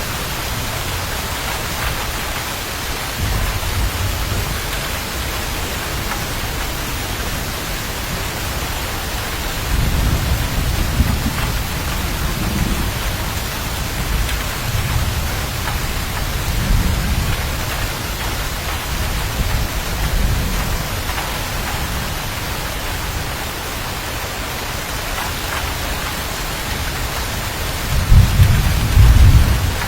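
Steady heavy rain with thunder rumbling low several times, the loudest rumble near the end.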